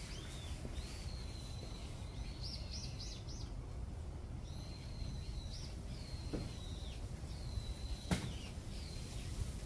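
Small birds calling with repeated thin, high whistled notes, some held level and a quick run of short rising ones, over a steady low background noise. A single sharp click about eight seconds in.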